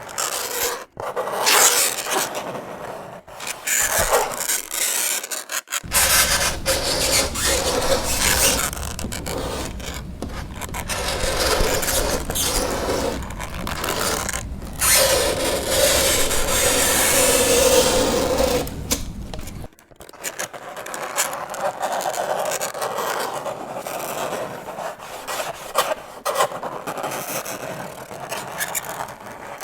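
Fingernails scraping across a chalkboard in long, rough, grating strokes broken by brief pauses. The longest and loudest scrape comes in the middle and carries a squeal.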